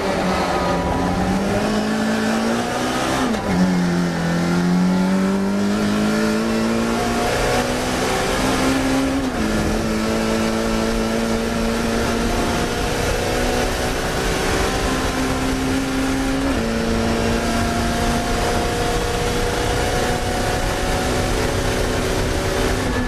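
Classic Mini racing car's four-cylinder engine heard on board at high revs, pulling hard. The note drops suddenly in pitch three times, about three and a half, nine and sixteen seconds in, and holds steady between the drops.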